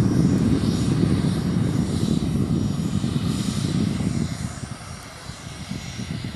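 Eclipse 500 very light jet's twin turbofan engines running, a loud rumble with a higher hiss that eases off about four and a half seconds in and builds again near the end.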